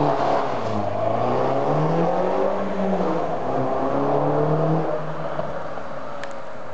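Mini Cooper S 1.6-litre turbo four-cylinder through a JCW Step 2 exhaust silencer, revved several times with the pitch rising and falling, then dropping back to idle about five seconds in.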